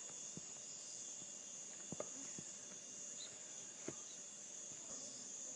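Quiet background: a faint steady high-pitched hiss with a few soft clicks, about three across the pause.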